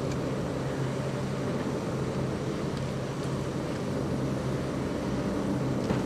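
ALCo S1 diesel switcher locomotive engine running steadily, a constant low drone with a few faint clicks over it.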